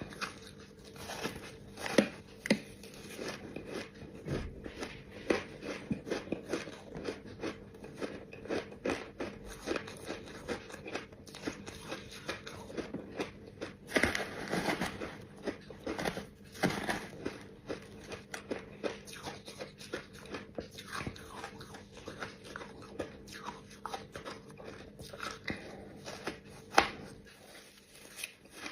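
Close-up crunching of shaved ice being bitten and chewed: dense, irregular crackles with a few louder bites.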